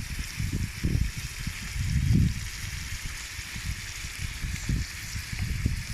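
Freshly added carrots sizzling in hot fat in a kazan of fried lamb and onion: a steady hiss, with low irregular thumps and rumbles underneath and a swell about two seconds in.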